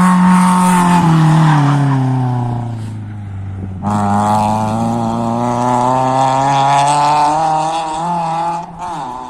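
Rally car engine at high revs, its pitch falling over the first few seconds. About four seconds in it comes sharply back on the throttle and holds high revs through a slide, then drops off near the end.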